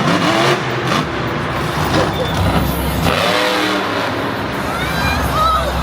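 Monster truck engines running and revving loudly, mixed with voices.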